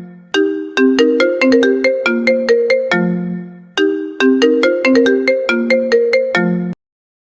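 Phone ringtone: a short melody of quick, plucked-sounding notes ending on a longer low note, played twice and cut off abruptly near the end.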